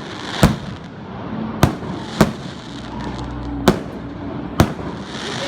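Fireworks display: five sharp aerial firework bangs at irregular intervals, over the steady hiss and rumble of the ongoing show.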